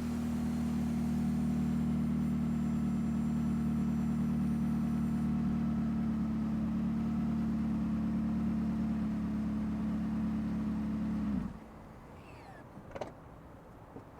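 McLaren 570S twin-turbo V8 running through a RYFT titanium aftermarket exhaust, held at steady revs just after the revs fall, with a steady exhaust drone. The sound stops abruptly about eleven seconds in.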